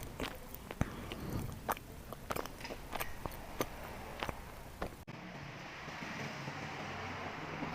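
Close-up eating sounds of a person biting and chewing grilled mala pork ribs: many sharp, crisp clicks over about five seconds. After an abrupt cut, a steady hiss follows.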